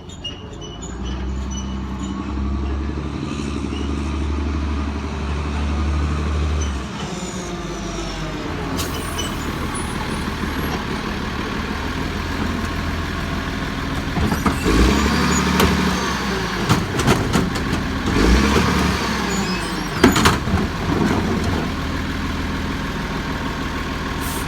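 Garbage truck on a compost pickup, its diesel engine running loudly and rising and falling in pitch. From about 14 s to 21 s a run of clanks and bangs sounds over it as the cart is lifted and emptied.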